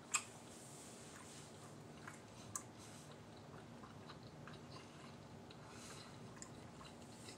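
Faint chewing of a bite of chicken quesadilla with the mouth closed, with a few soft mouth clicks; a sharper click comes just after the start and another about two and a half seconds in.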